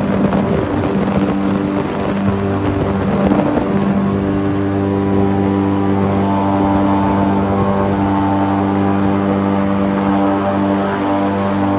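Airboat driven by twin big-block Chevrolet 502 V8 engines running under way, a loud, steady engine-and-propeller drone with a rougher rush of noise in the first few seconds.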